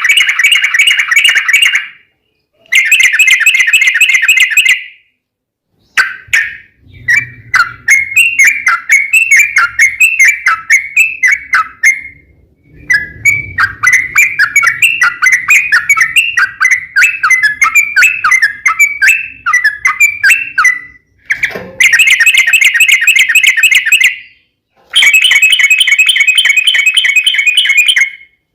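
Yellow-vented bulbul (trucukan) singing loud, long rapid chattering phrases of fast repeated notes, separated by short pauses.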